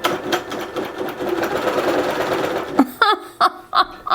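Grace longarm quilting machine stitching in a fast, even run for almost three seconds and then stopping, run as a test after a thread-tension adjustment.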